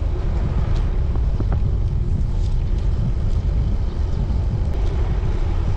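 Wind buffeting the microphone of a rider on a moving road bicycle: a steady low rumble.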